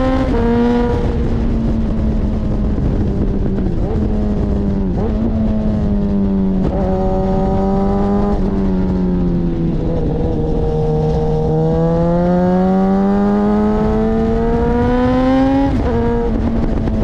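Suzuki GSX-S1000's inline-four engine breathing through an Akrapovic exhaust, running under way: the engine note climbs and eases over several seconds at a time, with several brief breaks and drops in pitch as gears change, the longest climb ending in a shift near the end.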